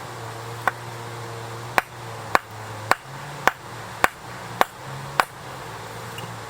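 A series of sharp knocks: one, then after a second's pause seven more at an even beat of about two a second, like something being struck repeatedly, over a steady low hum.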